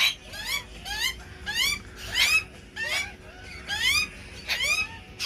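Several birds calling over and over in a squabble for territory: short harsh calls, each rising in pitch, about two or three a second.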